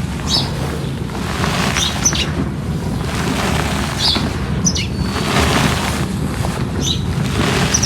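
Small birds chirping in short calls, about seven over several seconds, over a steady low rustling noise.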